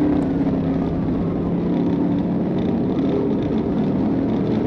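A vehicle running steadily: a constant engine hum over road noise, with a faint whine slowly falling in pitch.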